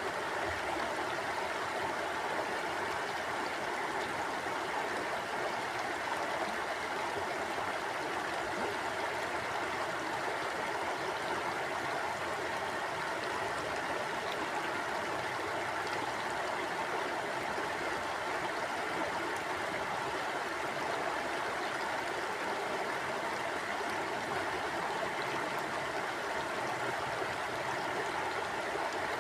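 Stream water flowing and gurgling in a steady, even rush.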